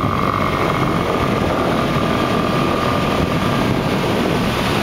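Motorbike engine running steadily while riding, under a heavy rush of wind and road noise, with a steady whine that fades out about three and a half seconds in.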